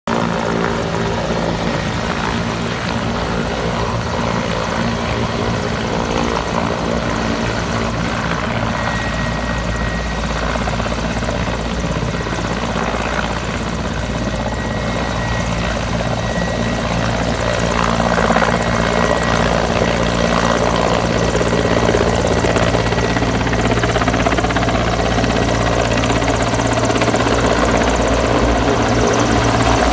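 Military helicopter running steadily, its rotor and engine sound continuous throughout and growing a little louder and fuller about two-thirds of the way through.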